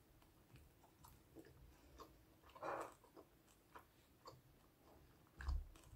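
Faint close-miked chewing of a mouthful of food, with small wet mouth clicks, a brief louder crunch-like noise about two and a half seconds in, and a soft low thump near the end.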